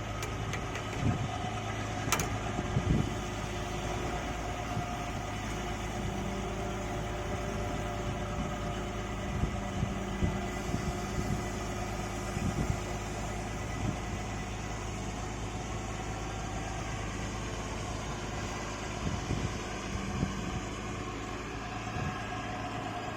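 Amphibious excavator's engine running steadily, with occasional short knocks and clunks scattered through it.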